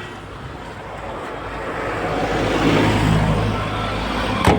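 VW LT 35 van's diesel engine running, growing louder over the first three seconds or so and then easing slightly. A sharp click comes near the end.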